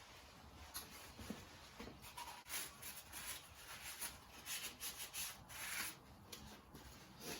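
Faint, irregular rubbing and scraping as engine parts and tools are handled, busiest in the middle.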